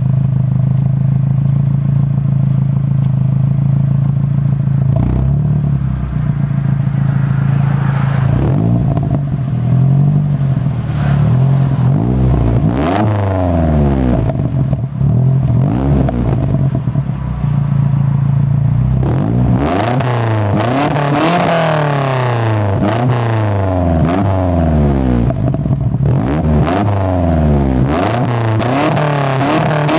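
Nissan 240SX's KA24E 2.4-litre four-cylinder engine through a steel cat-less exhaust with a 4-inch tip, idling steadily and then revved again and again, each rev rising in pitch and falling back to idle. The revs come in a quick string over the last ten seconds or so. The engine is running rich.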